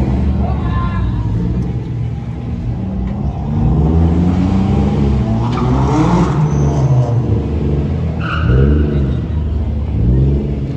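A car engine revving repeatedly, its pitch climbing for several seconds and then dropping, with shorter blips near the end. A brief high tone sounds about 8 seconds in.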